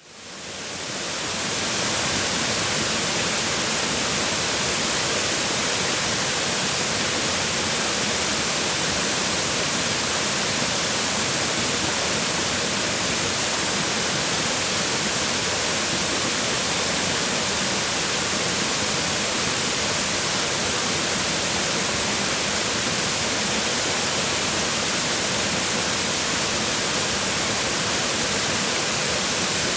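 Waterfall: water falling and splashing onto rocks in a steady, rich rush. It fades in over the first second or two, then holds even.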